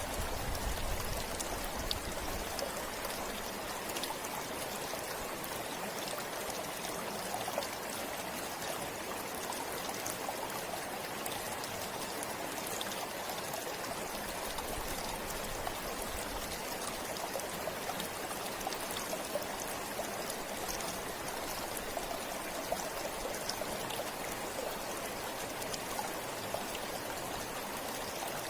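Shallow river or forest stream flowing steadily, a continuous rush of water with small splashes and drips.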